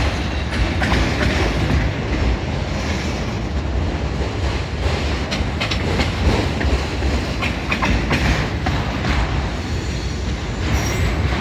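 Freight train cars rolling past on steel wheels: a steady low noise with scattered sharp clicks from the wheels on the rails.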